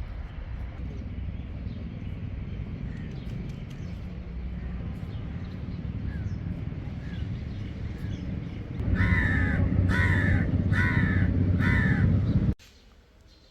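A crow cawing four times, about a second apart, over a steady low rumble. All sound cuts off suddenly near the end.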